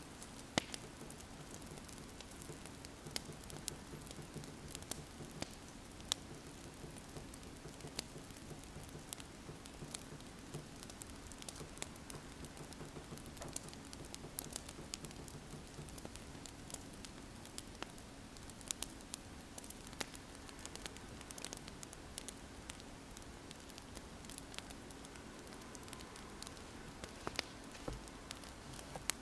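Crackling wood fire: sharp pops and ticks at irregular intervals over a steady soft hiss, with a pen writing on paper mixed in.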